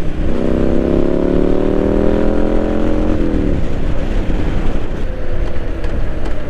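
Triumph Street Scrambler 900's parallel-twin engine accelerating hard: the pitch climbs steadily after a gear change right at the start, then the throttle rolls off about three seconds in and the engine note drops away.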